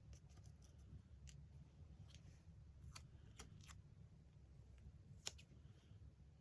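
Scissors snipping paper in faint, scattered cuts, with one sharper snip about five seconds in.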